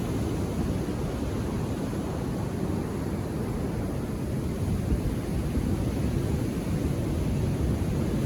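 Ocean surf breaking on a beach, heard as a steady low rumble with no single wave crash standing out.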